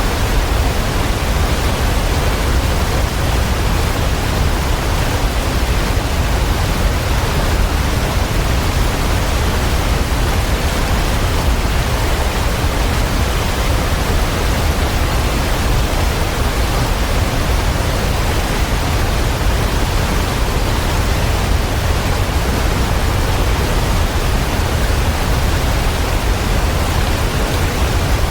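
Waterfall: falling water making a steady, unbroken rush, heaviest in the low range.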